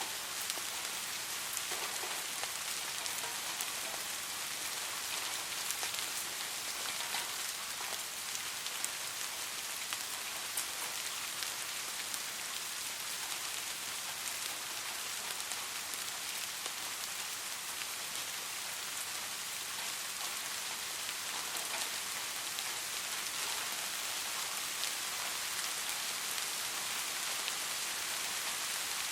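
Steady soft rain: an even hiss with many small drops ticking on a surface.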